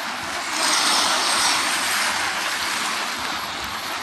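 Sea waves washing up the beach: a wash of surf that swells about half a second in and slowly fades.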